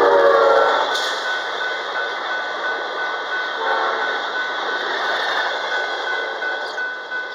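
An Amtrak Cascades passenger train passing on the main line. Its horn finishes a loud blast, dropping slightly in pitch, in the first second and gives one more short blast around four seconds in, over the steady rush of the passing cars. A bell rings in quick, even strokes behind it.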